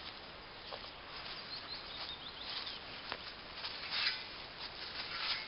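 Dry leaves, twigs and grass rustling and scraping in irregular bursts as the ground is cleared for a campfire, with the loudest burst about four seconds in.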